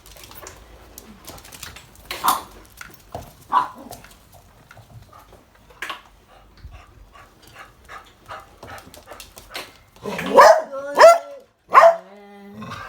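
A dog barking three times in quick succession near the end, after several seconds of faint scattered clicks and scuffles.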